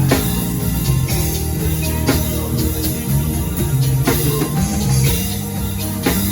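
Live worship band playing an instrumental passage: drum kit with sharp hits roughly once a second over held bass and keyboard notes, with guitar.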